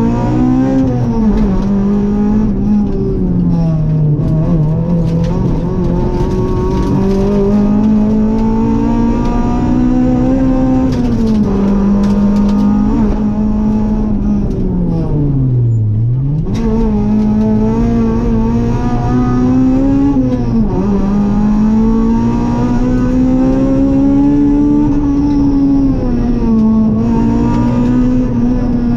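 Rally car engine heard from inside the cockpit, driven hard: the revs climb and fall repeatedly, dropping abruptly at gear changes. About halfway through the revs fall steeply to a low note and then climb again.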